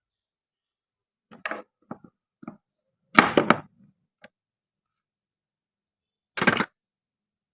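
A toy knife cutting and knocking against toy fruit and vegetables: a few light taps, then a louder scraping cluster about three seconds in and one more short burst near the end.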